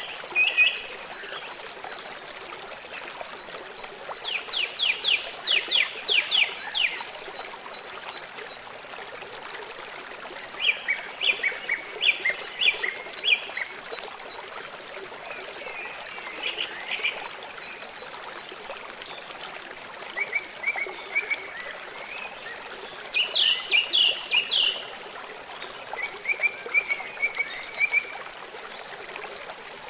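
A songbird singing short phrases of rapid repeated notes every few seconds, over a steady rush of flowing water from a stream.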